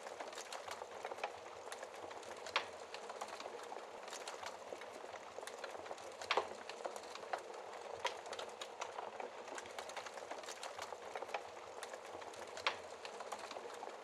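Wood fire crackling in a fireplace, with steady small clicks and about four sharper, louder pops, over the even hiss of rain.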